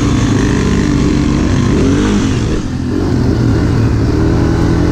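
Dirt bike engine running under way on a trail. Its pitch rises and falls with the throttle and dips briefly about two and a half seconds in.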